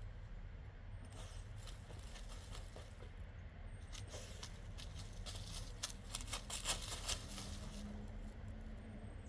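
A dog digging in soft dirt: scratchy pawing and patter of loose soil in bursts, busiest from about four to seven seconds in.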